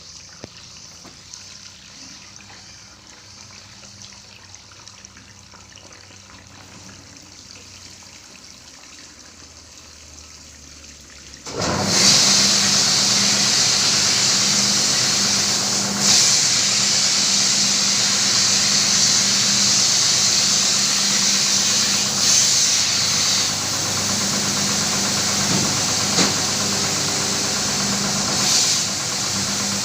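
Carpet-washing machine switching on abruptly about eleven seconds in, then running with a steady hum under a loud hiss.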